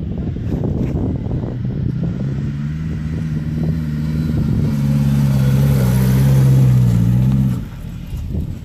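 Honda S2000 four-cylinder engine in a trials car, pulling at fairly steady revs under load up a grass slope. It grows louder as the car climbs past, then drops away sharply near the end.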